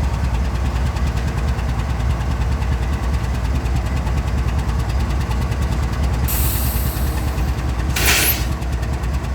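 Diesel-electric freight locomotives idling with a steady low rumble. About six seconds in a high air hiss starts, and about eight seconds in comes a short, loud blast of released air.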